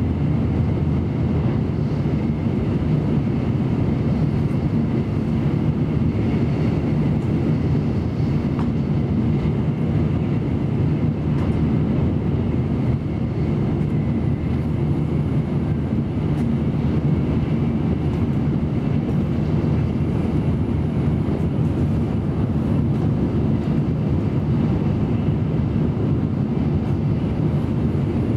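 Cabin noise inside an N700A Shinkansen running at speed: a steady, deep noise of the train's running, with no change in level.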